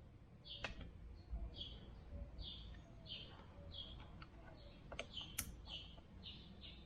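A bird chirping over and over, faint, about two short chirps a second, with a few sharp clicks about half a second in and twice near the five-second mark.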